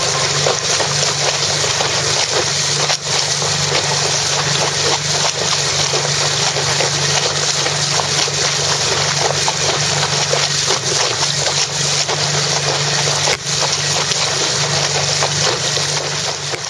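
Small outboard motor running steadily, driving a kayak catamaran through open water, with a loud even rush of wind and water over it.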